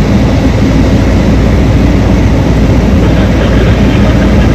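Heavy mining diesel engine running steadily, a loud low rumble.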